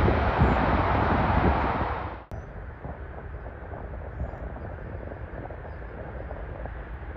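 Engine noise of a landing jet airliner passing close by. It cuts off abruptly about two seconds in, leaving a quieter low rumble and wind on the microphone.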